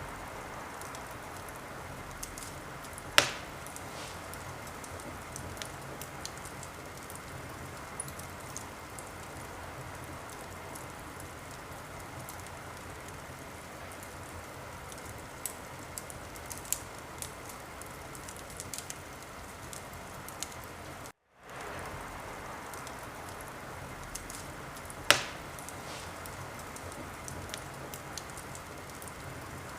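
Wood fire crackling in a fireplace: a steady hiss with scattered small crackles and two loud sharp pops, one about three seconds in and one near the end. The sound cuts out for a split second about two-thirds of the way through.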